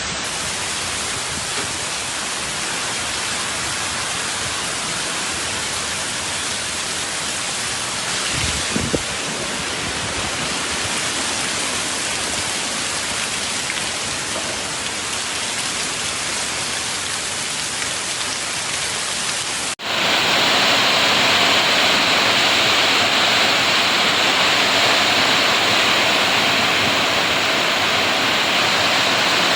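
Heavy rain pouring steadily in a storm, with a brief low rumble about eight seconds in. Two-thirds of the way through it cuts to a louder, hissier downpour.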